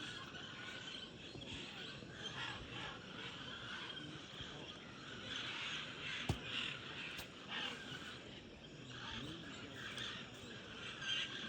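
Faint birds calling irregularly over a quiet, low background, with a single sharp click about six seconds in.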